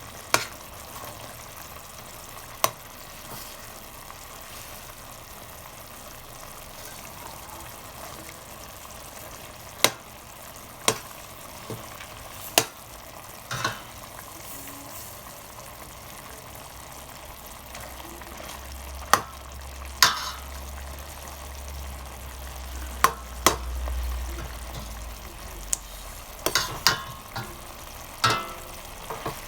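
Chicken adobo sizzling steadily in a pot of its own rendered fat and sauce, with a dozen or so sharp clicks of a utensil against the pot as it is stirred.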